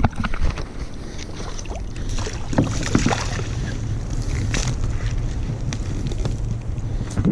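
Wind rumbling on the microphone of a sea kayak on the water, with scattered knocks and clicks along the way.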